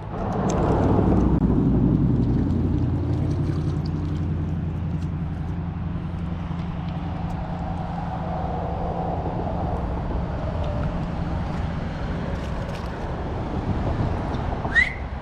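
A motor vehicle engine running steadily, swelling over the first couple of seconds and then holding a low hum. A short rising chirp sounds near the end.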